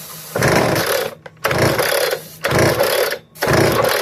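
Hilti DSH 900 cut-off saw's two-stroke engine being cranked over in four quick bursts, about one a second, rattling without catching. It is not starting because the primer bulb isn't drawing fuel.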